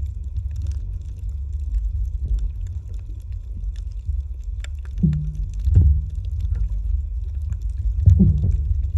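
Muffled underwater rumble with a few surges of bubbling, about five seconds and eight seconds in, typical of a scuba diver's exhaled breath through the regulator, and faint scattered clicks.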